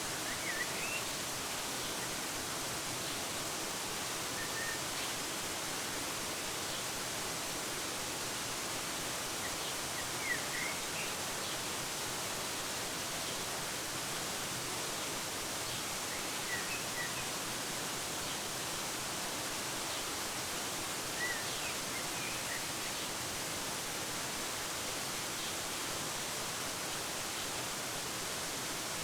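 Waterfall rushing steadily, with short bird chirps here and there, a few quick notes at a time.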